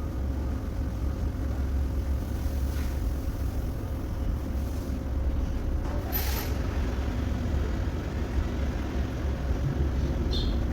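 Vehicle engine idling with a steady low rumble, with a short hiss of air about six seconds in.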